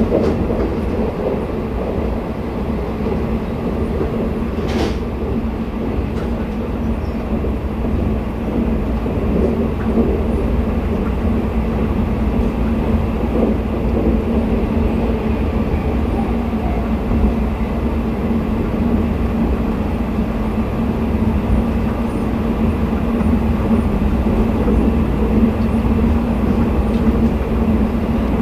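Steady running rumble of the Twilight Express sleeper coach on the rails, heard from inside the car as the train passes through a station at speed. A single sharp click comes about five seconds in.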